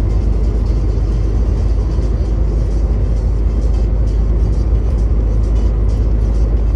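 Truck engine and tyre-on-road noise while driving at a steady pace, a continuous low rumble without changes.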